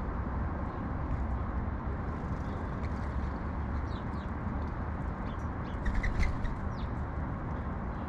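Sparrows chirping in short, scattered notes, with a brief louder cluster of chirps about six seconds in, over a steady low rumble of city background noise.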